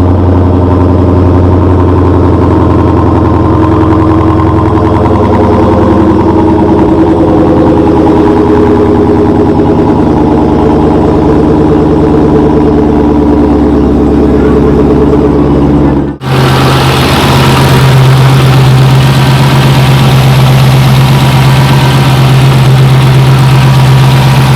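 Dodge SRT Hellcat's supercharged 6.2-litre Hemi V8 idling steadily after a cold start, sounding healthy with no odd noises. About two-thirds of the way through it drops out for a moment and comes back a little higher in pitch and brighter.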